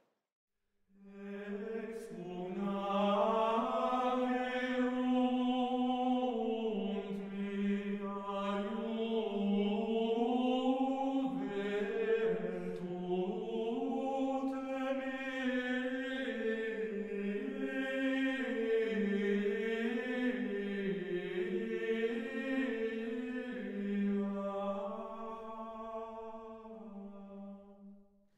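Sung chant: voices holding one slow, unbroken melodic line. It fades in about a second in and fades out near the end.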